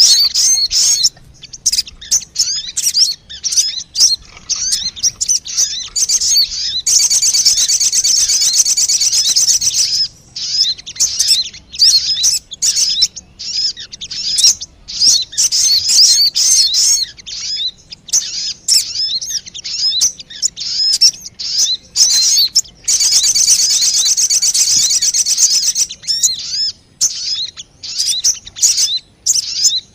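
Sogon bird calls played as a lure: fast, high chirps and twittering phrases with brief pauses, breaking into a long run of rapid trilling about seven seconds in and again near the twenty-three-second mark.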